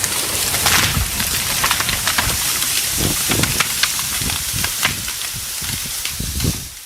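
A felled tree crashing down through branches and foliage: continuous crackling and snapping with low thuds, easing off near the end.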